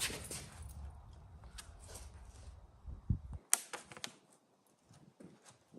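Scattered light knocks, taps and scrapes of a rigid foam insulation board being shifted and pressed into place in a garage door panel. The sharpest click comes about three and a half seconds in.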